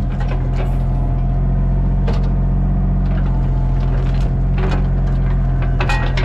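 Home-built bandsaw mill running steadily, a constant low machine hum with scattered short clicks and knocks.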